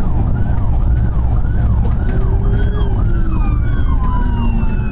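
Police car siren in a fast yelp, its pitch sweeping up and down about every half second, over the heavy engine and road rumble of a pursuing vehicle. About halfway in, another steady tone slides slowly down in pitch.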